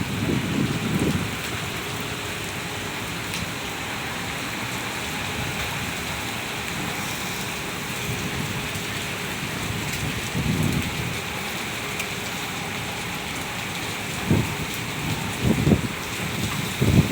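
Steady rain falling, an even hiss throughout, with a few brief low thumps, mostly in the last few seconds.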